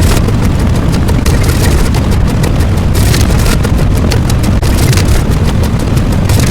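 Loud, continuous, distorted rumbling noise with dense crackling throughout, heavy in the low end.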